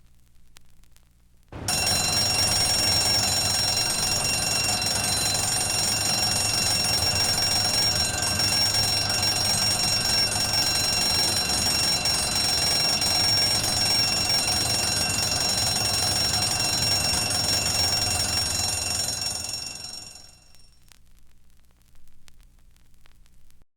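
A bell ringing continuously, starting suddenly and holding steady for about eighteen seconds before dying away.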